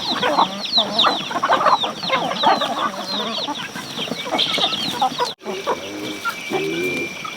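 Chickens clucking among many short, high, falling peeps. About five seconds in the sound cuts off abruptly, and a steady high whine with low patterned calls takes over.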